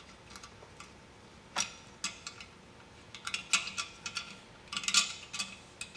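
Light, scattered clicks and small metallic ticks of small parts and wires being handled while a compressor's replacement valve is put back together, in a few short clusters.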